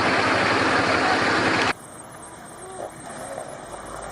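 Off-road 4x4 truck engine running under a loud, even rushing noise that cuts off abruptly under two seconds in. After that a quieter engine idles.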